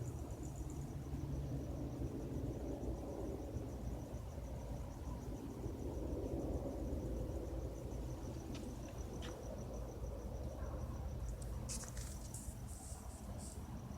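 Crickets trilling steadily over the low, steady rumble of a distant police helicopter circling overhead, with a few short clicks near the end.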